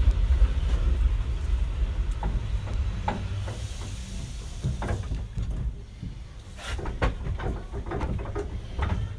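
Vintage train carriage running on the rails: a steady low rumble with scattered clicks and knocks from the wheels and running gear. It grows quieter about halfway through as the train slows under its hand brake.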